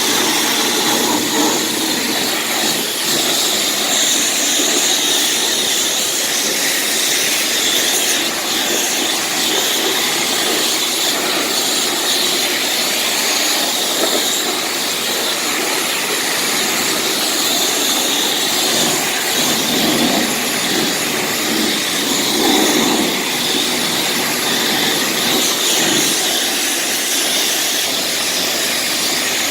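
High-pressure rinse wand at a self-serve car wash spraying water onto a car: a loud, steady hiss.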